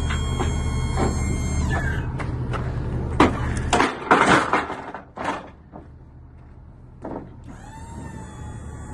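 Electric hydraulic pump of a box truck's aluminum lift gate running with a steady whine, then winding down about two seconds in. Several metal clanks and knocks follow, and near the end the pump starts again, its whine rising in pitch.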